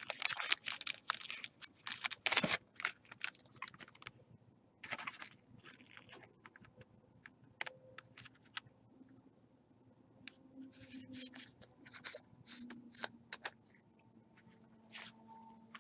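Trading cards and pack wrappers being handled: a quiet run of short clicks, slides and crinkling rustles as cards are shuffled, tapped and pulled from packs.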